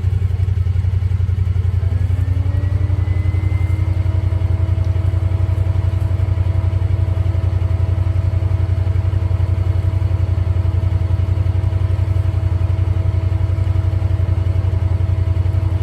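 An engine running steadily with a low, fast, even pulse. A faint tone rises in pitch about two seconds in, then holds steady.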